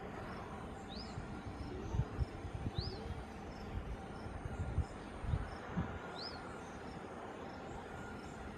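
A small bird gives a short, high whistled call that rises and falls, three times a couple of seconds apart, over a steady outdoor hiss. Low thuds on the microphone come and go in the middle seconds.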